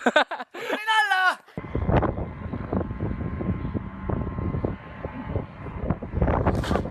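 A short vocal outburst, then a sudden switch to loud, rumbling wind buffeting the microphone, with small knocks and rattles through it.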